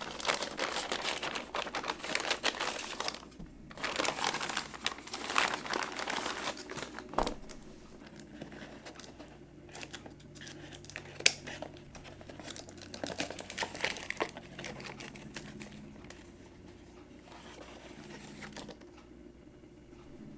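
Crinkling and rustling of packaging being handled, dense for the first seven seconds, then sparser crackles, with a sharp click about eleven seconds in.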